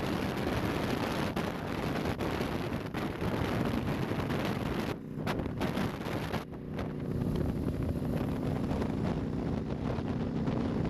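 Harley-Davidson Nightster 1200 V-twin motorcycle engine running on the move, with wind rushing over the microphone. The engine's note dips briefly twice about five and six and a half seconds in, then runs steadily.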